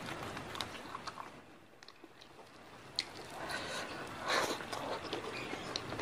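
Fingers handling and tearing raw leafy greens, then, about halfway through, crisp, wet chewing of a mouthful of raw greens with sambal, close to the microphone.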